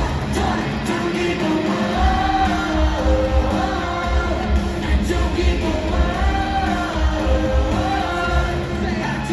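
Pop song with a sung melody over a heavy, steady bass beat.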